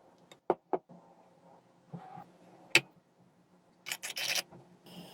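A few sharp, separate clicks, then a brief rapid rattle of clicks about four seconds in, over a faint steady hum.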